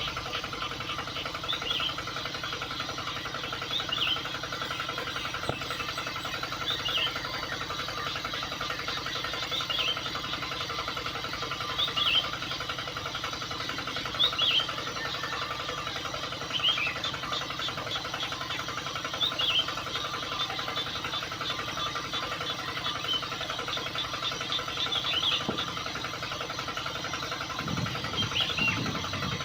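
A small motor running steadily with a fine buzz, likely the model's miniature water pump or tractor. Short high chirps recur about every two to three seconds over it.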